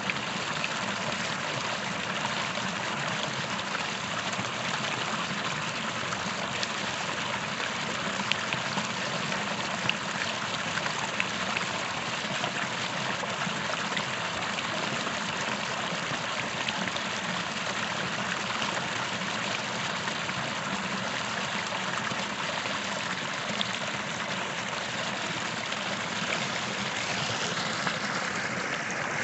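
Small creek flowing steadily over stones, a continuous rushing and trickling of water with small splashes now and then.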